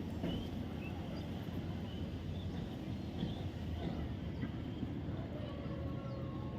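Faint, scattered chirps from a pet parrot over a steady low background hum.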